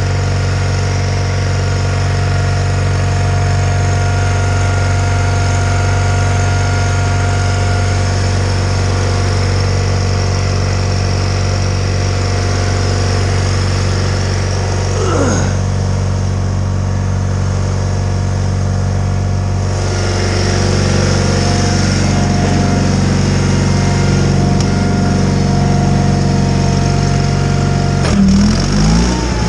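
John Deere 318 garden tractor's air-cooled Onan flat-twin engine running steadily, driving its snowblower. The engine note changes briefly near the end, dipping and then picking back up.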